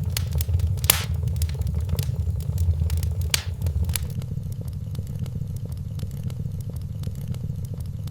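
Wood fire crackling in a fireplace: irregular sharp pops and snaps, more frequent in the first half, over a steady low rumble.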